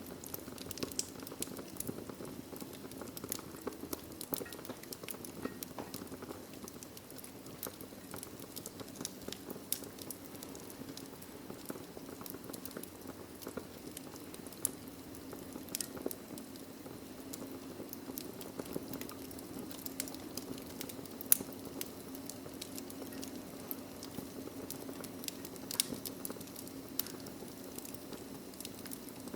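Wood logs burning in a fireplace: a steady low hiss of flame with irregular sharp crackles and pops, a louder pop about two-thirds of the way through.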